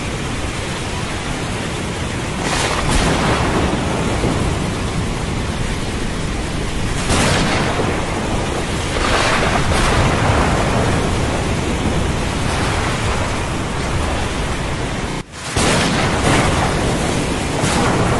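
Steady rain with thunder, the noise swelling every few seconds. It drops out for an instant about three seconds before the end, then comes straight back.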